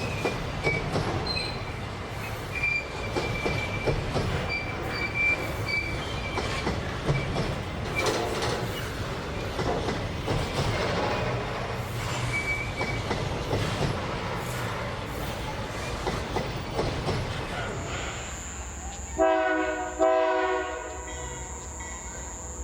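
Freight train wagons rolling past on the rails, with clicks over the rail joints and an on-and-off high wheel squeal. Near the end a locomotive air horn sounds two short blasts.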